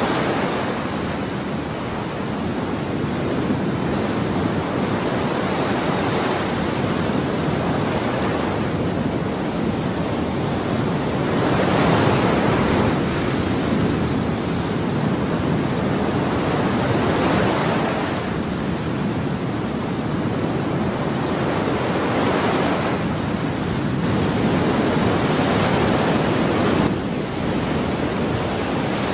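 Ocean waves breaking and washing on a shore, a continuous rush of surf that swells every five or six seconds.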